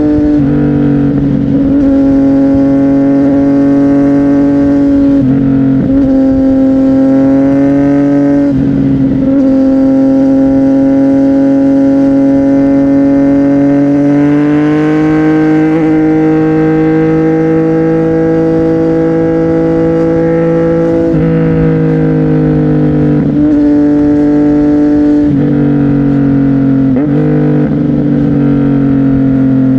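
CFMOTO 675NK's inline three-cylinder engine running through a titanium aftermarket exhaust while riding. It holds a steady note between several quick gear changes, each one a brief break and a jump in pitch.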